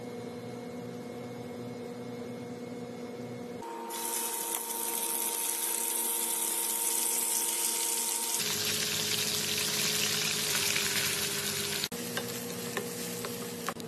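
A steady hum, then from about four seconds in the loud hiss of chicken pieces sizzling as they fry in hot oil in a nonstick pan. Near the end the sizzling drops and a few light clicks come as a wooden spatula stirs the chicken with chopped onion.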